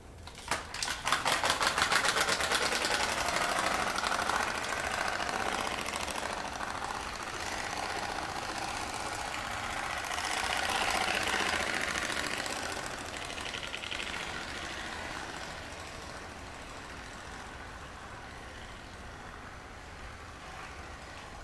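Rapid, engine-like buzzing rattle from a cruiser bicycle dressed up as a motorcycle as it is ridden. It speeds up and is loudest in the first few seconds, swells again about halfway, then fades as it moves away.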